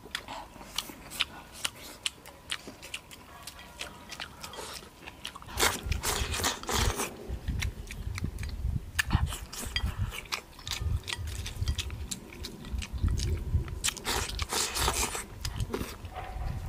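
Someone chewing a mouthful of braised pork meatballs in tomato broth. Small sharp clicks come through the first few seconds, and louder bouts of chewing start about five seconds in.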